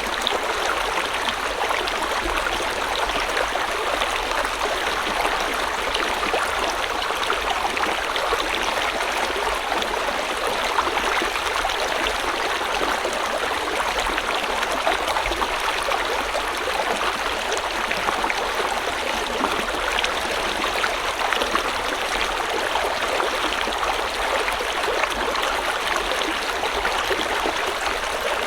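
A stream or small river flowing steadily over rocks, a constant rushing and trickling of water.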